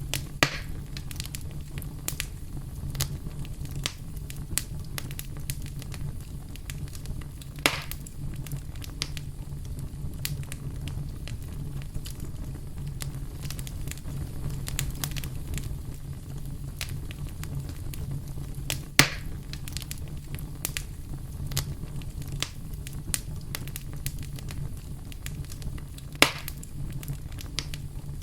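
Campfire crackling: a steady low rumble of the flames with frequent small crackles, and four louder sharp pops spread through.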